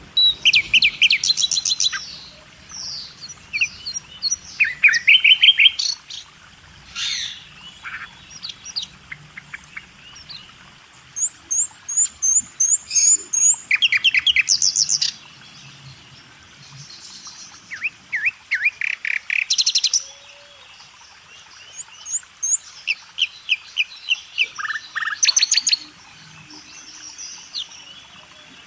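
Songbirds chirping and singing in quick runs of high notes, phrase after phrase with short pauses between.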